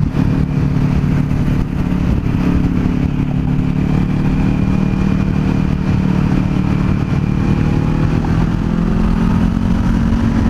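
Kawasaki Z400's parallel-twin engine running steadily while the motorcycle is ridden along the road, with a constant low rumble of wind on the microphone.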